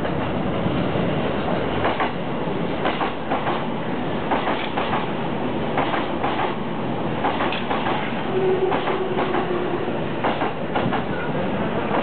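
JR East E233-series electric train arriving over the points, its wheels clacking irregularly across the switch and rail joints above a steady rolling rumble. A brief steady whine comes in about eight seconds in.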